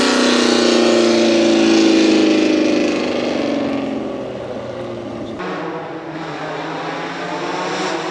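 Historic racing car engine passing at speed and fading into the distance, its pitch sliding down as it goes. About five seconds in the sound changes abruptly to another engine running more quietly at a steady pitch.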